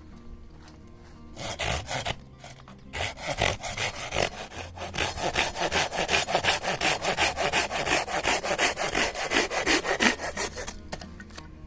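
Hand saw cutting through wood in rapid, even back-and-forth strokes. A few strokes come first, then a short pause, then steady sawing for about eight seconds that stops shortly before the end.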